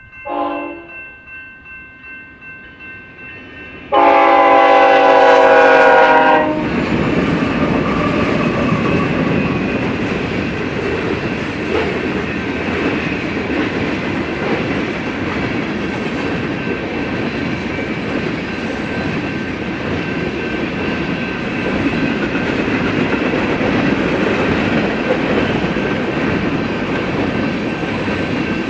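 Freight locomotive air horn sounding a brief blast, then a long loud blast about four seconds in. After it comes the steady rumble and clatter of the freight cars rolling through the level crossing, with the crossing bell ringing throughout.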